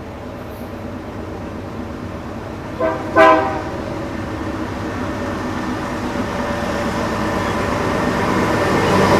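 Freight train locomotive approaching a road crossing, its rumble growing steadily louder. About three seconds in, its horn sounds twice: a short blast, then a louder one that dies away quickly.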